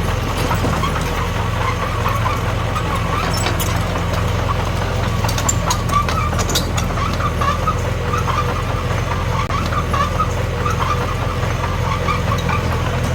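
Small bulldozer's diesel engine running steadily, with scattered sharp clicks and a wavering higher squeal over the hum.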